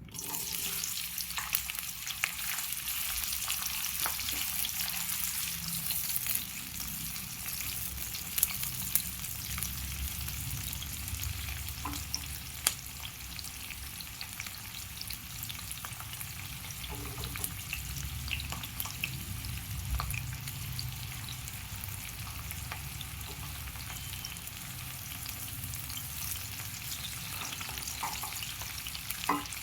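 Food sizzling in hot oil in a pan, with occasional sharp taps and scrapes of a spoon stirring it.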